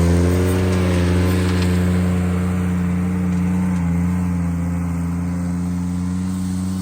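Ventrac compact tractor's engine running steadily under work, its pitch dipping slightly about four seconds in.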